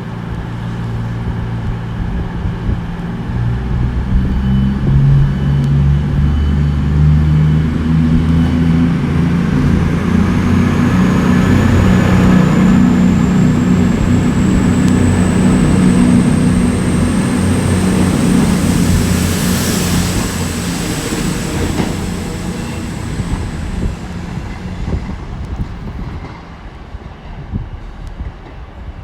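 CrossCountry Voyager diesel multiple unit pulling out of the station, its underfloor diesel engines rising in pitch as it accelerates, with a high whine that climbs and holds. It grows loudest about halfway through, then fades away over the last few seconds.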